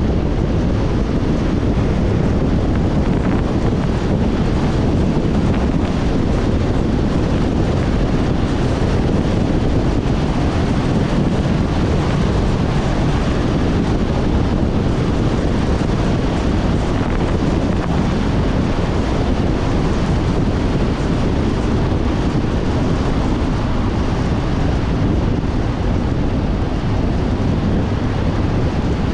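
Steady, loud wind rush and road noise buffeting a GoPro mounted on the outside of a car driving at about 120 km/h.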